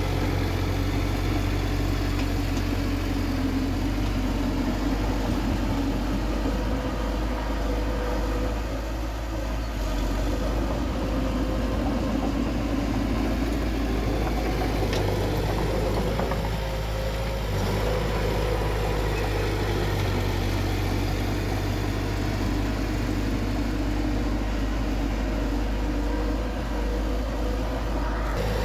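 Diesel engine of heavy earthmoving machinery running steadily. Its note wavers and dips slightly now and then as it works.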